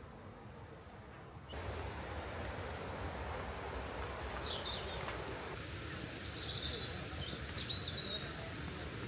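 Outdoor background noise, which steps up in level about a second and a half in, with a bird chirping in short, high, warbling phrases from about four and a half to eight seconds in.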